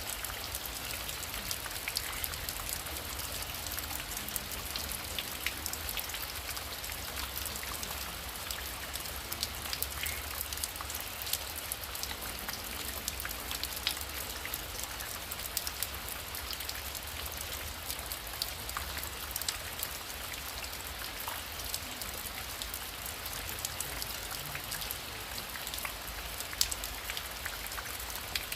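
Heavy rain falling steadily, with many individual drops ticking sharply through the constant hiss.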